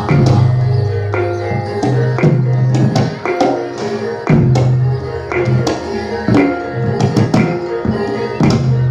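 Jathilan accompaniment music: hand-drum strokes over ringing, gamelan-style metal tones, with deep held tones recurring about every second or two.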